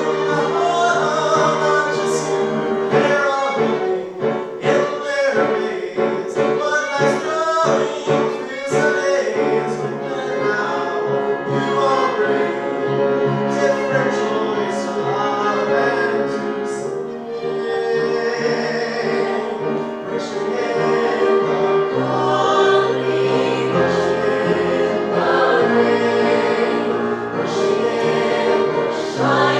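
Music: several voices singing together in harmony over instrumental accompaniment, with a lower bass part coming in about two-thirds of the way through.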